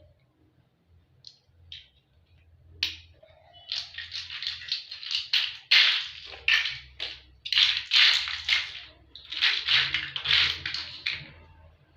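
Toy building blocks clattering and clicking against each other in a rapid, dense run of sharp clicks, starting about three seconds in and stopping just before the end.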